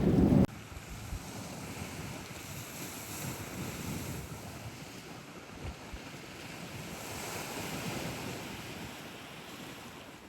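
Wind on the microphone and water washing in slow swells. A loud low rumble cuts off abruptly about half a second in, and the sound fades out near the end.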